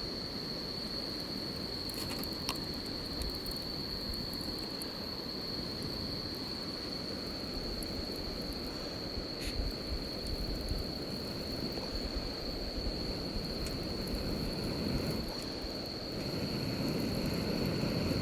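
Campfire burning: a steady low rumble with a few sharp crackles and pops from the wood.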